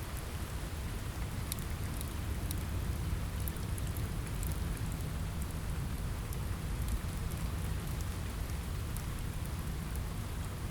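Steady rain on a window over a low rumble, mixed with scattered sharp crackles of a wood fire.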